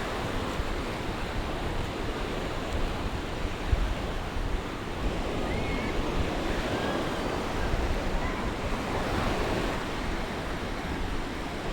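Sea waves washing onto the beach in a steady wash of surf, with wind rumbling on the microphone.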